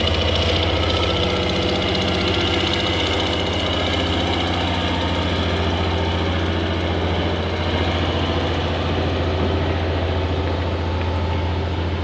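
Diesel engine of heavy road-building machinery running steadily at a low, even drone.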